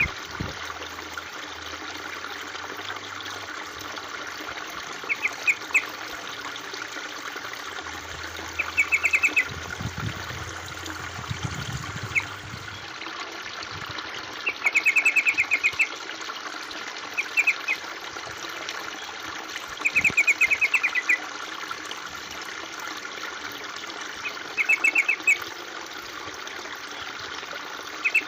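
Water trickling steadily, with a bird chirping in short bursts of rapid repeated notes every few seconds; the chirps are the loudest sound.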